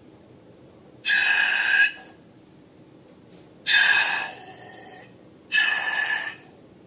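Air hissing out of a balloon's neck in three short bursts, each with a faint squealing whistle.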